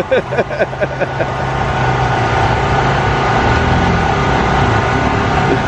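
ATV engine running steadily. A quick run of short rising sounds comes in the first second, before the steady engine note takes over.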